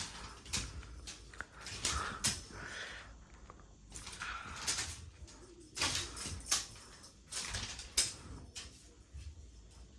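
Irregular scuffles, rustles and taps as a cat pounces and grapples at a feather wand toy, with several sharper bursts in the second half.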